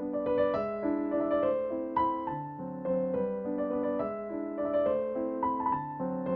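Background piano music: a gentle, flowing melody with notes changing in a regular pattern.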